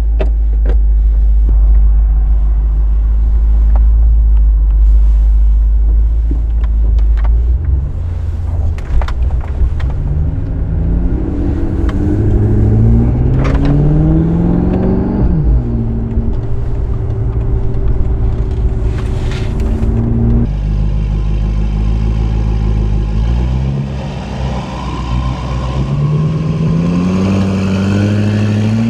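BMW F10 M5 Competition's twin-turbo V8 breathing through an Akrapovic exhaust, on a Stage 2 MHD tune. It holds a steady low drone, then accelerates with its pitch rising, drops sharply about halfway, and climbs again in steps through the gears near the end.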